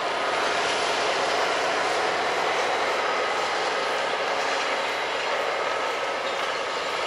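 Freight train's leading diesel locomotives (EMD SD70M-2, GE ES44DC and EMD SD70MAC) running past at a distance. Engines and wheels on rail make a steady rushing din.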